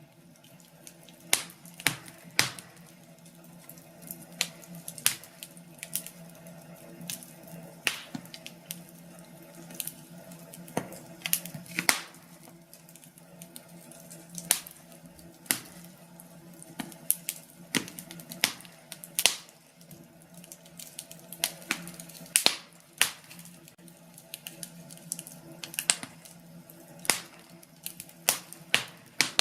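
Wood fire burning in a fireplace, crackling with irregular sharp pops and snaps, over a faint steady low hum.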